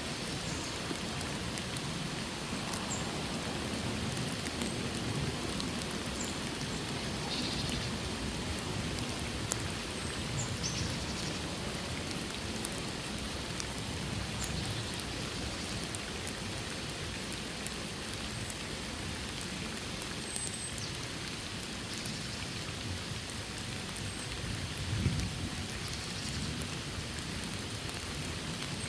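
Steady rain falling in a forest, an even patter with scattered sharper drips and taps.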